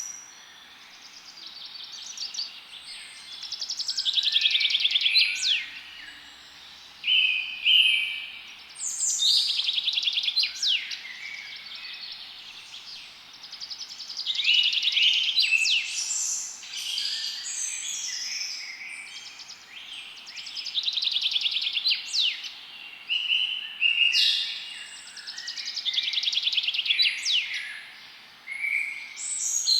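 Several songbirds singing and chirping at once in a forest chorus: overlapping rapid trills and short whistled phrases, coming in waves every few seconds.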